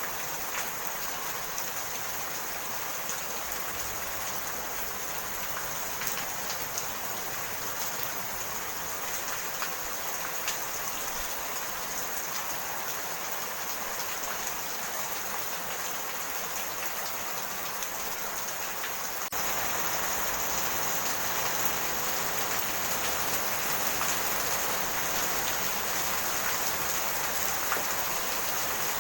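Steady rainfall with scattered individual drops ticking. About two-thirds of the way in, it becomes a little louder all at once.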